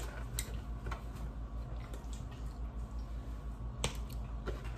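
Wet chewing and mouth sounds of people eating fried chicken and fries, with a few soft clicks and one sharper tap a little under four seconds in, over a steady low hum.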